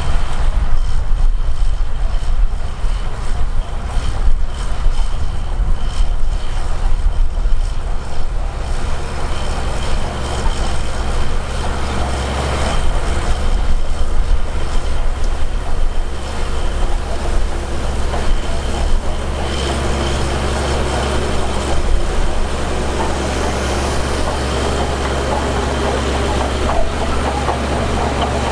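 Heavy diesel earthmoving machinery running steadily, with a deep engine note that stays level throughout.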